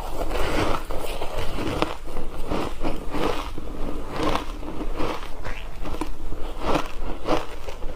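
Refrozen ice crunching between teeth as it is bitten and chewed, a steady run of crunches about two a second.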